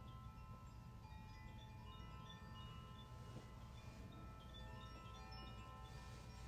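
Chimes ringing softly, many clear metallic tones at scattered pitches starting one after another and overlapping as they fade, over a faint low hum.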